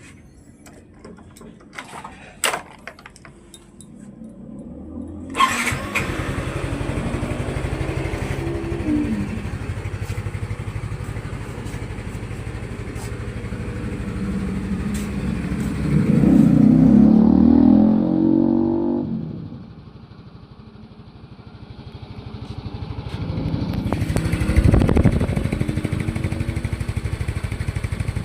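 Yamaha Mio i 125 scooter's single-cylinder four-stroke engine, after a few clicks, starting about five seconds in and idling, then revved up twice and settling back to idle each time. The engine has been rebuilt after knocking from lack of oil.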